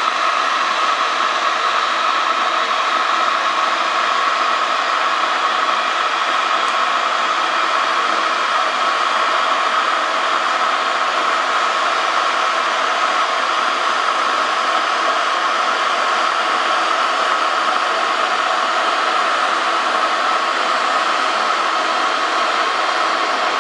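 Kettle heating water: a loud, steady hiss that stays even throughout.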